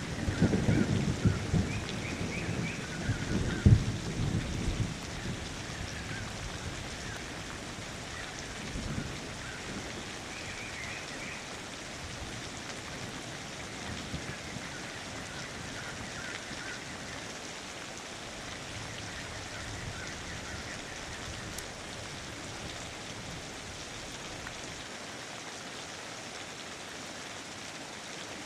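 Steady rain falling, with a roll of thunder rumbling loudly in the first few seconds and dying away.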